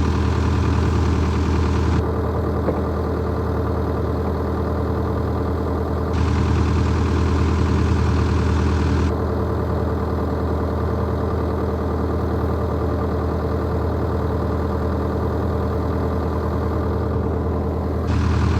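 Excavator's diesel engine idling steadily, its sound shifting abruptly a few times.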